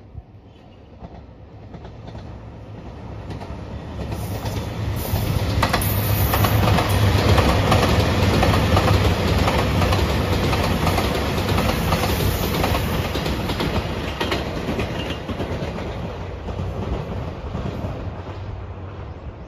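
JR Shikoku 2700 series diesel express train passing close by: its diesel engines running under the carriages and the wheels clattering over the rail joints. It grows louder, is loudest in the middle, and fades away toward the end.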